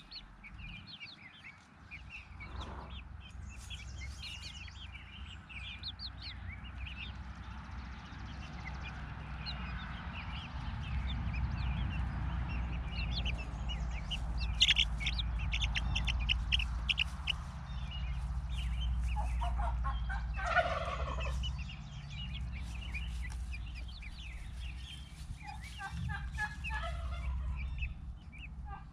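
Backyard fowl calling: many short, high chirps, a louder call falling in pitch about two-thirds of the way through, and a run of repeated calls near the end, over a steady low rumble.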